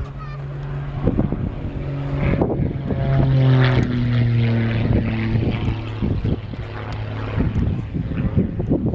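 Propeller aircraft engine droning, loudest about three to four seconds in, its pitch sliding down as it goes by.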